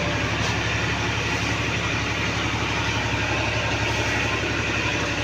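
Tractor diesel engine running steadily at low, even revs.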